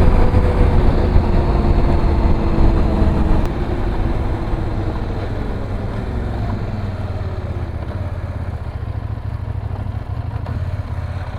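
Motorcycle engine running under way, with wind rush. The engine note falls over the first few seconds as the bike slows, then runs steady and a little quieter.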